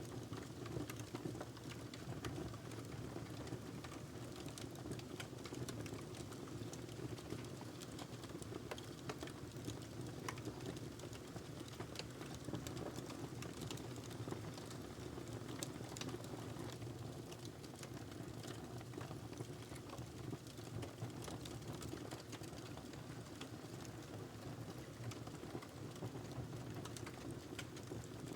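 Wood fire burning in a fireplace: a steady low rush of flames with frequent sharp crackles and pops at irregular moments.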